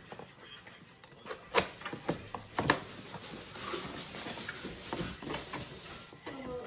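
A cardboard box and its packaging being opened and handled: a few sharp knocks about one and a half to three seconds in, then softer rustling and scraping.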